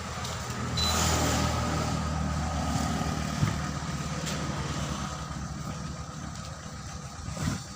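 A vehicle engine running steadily. It gets louder about a second in, then slowly fades over the last few seconds.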